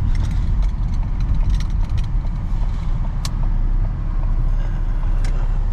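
Freightliner box truck running, heard from inside the cab as a steady low engine and road rumble, with a few sharp clicks and rattles.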